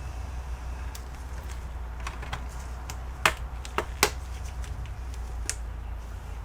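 Small sharp clicks and taps of tools and small parts being handled during a laptop charging-port repair, with two louder clicks about three and four seconds in, over a steady low hum.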